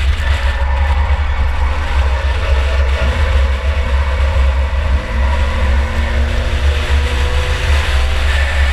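A 2004 Chevy Impala race car's engine running under way, heard from the ride-along camera, with a heavy steady low rumble throughout.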